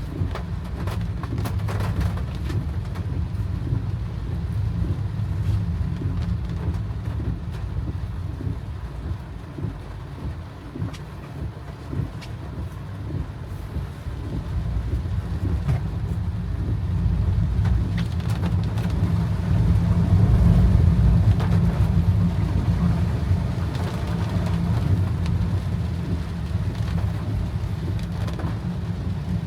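A car driving in heavy rain: a steady low rumble of engine and tyres on a wet road, with rain on the car above it. The rumble swells louder about two-thirds of the way through, then eases.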